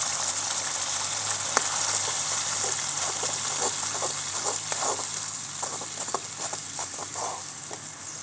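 Masala sizzling in hot oil in a kadai as soy sauce is poured in and stirred with a metal skimmer. Short knocks and scrapes of the skimmer against the pan come in from about three seconds in, and the sizzle eases toward the end.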